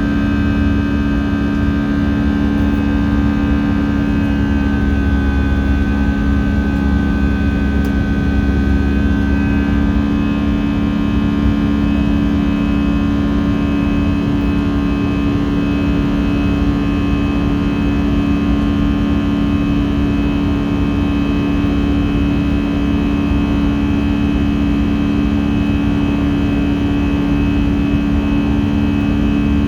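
Steady cabin drone of an Airbus A319's jet engines, heard from inside the cabin, with a strong low hum. A faint high whine dips slightly in pitch and fades out about ten seconds in.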